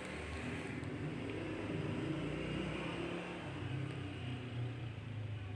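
Marinated chicken and sliced onions frying in oil in a pot, stirred with a spoon, over a steady low hum.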